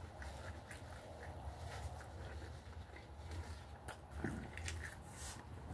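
Quiet mouth sounds of a man eating: chewing and licking his fingers, with scattered small wet clicks over a steady low hum.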